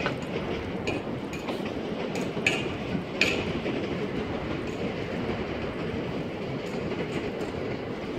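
Train passing on nearby tracks, a steady rumble. A few sharp clicks sound over it, about a second in and twice more around two and a half to three seconds in.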